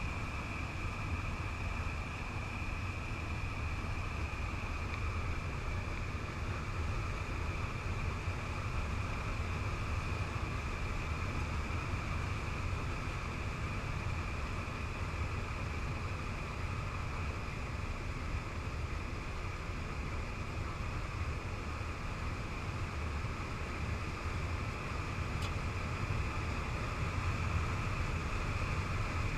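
Cessna 208B Caravan's PT6A turboprop engine and propeller heard from inside the cockpit during a rapid descent: a steady low drone with a constant high whine over it, and rushing airflow.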